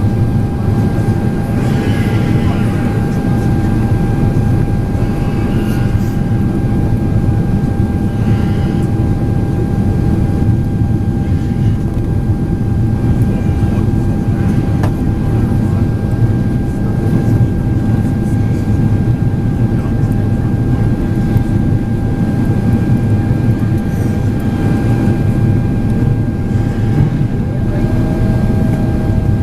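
Steady cabin noise inside a Boeing 767-400ER airliner in flight: a continuous low roar of jet engines and airflow with a steady whine, and another whine tone setting in near the end.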